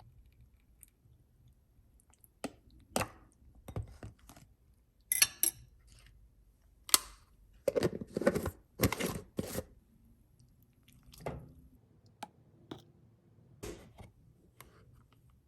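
Irregular kitchen handling sounds: a dozen or so separate taps, clinks and knocks of utensils and dishes, busiest around the middle.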